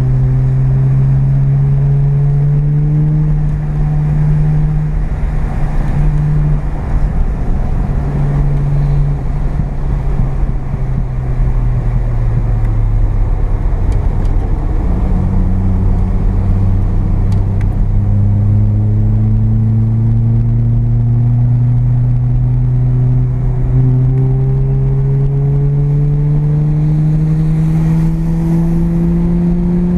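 Mazda RX-7's 12A rotary engine heard from inside the cabin, running under load. Its note holds, falls off about twelve seconds in, then rises steadily through the second half as the car accelerates.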